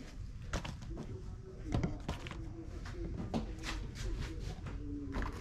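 Japanese television talk playing faintly in the background, with a handful of sharp clicks and knocks from cooking in the kitchen.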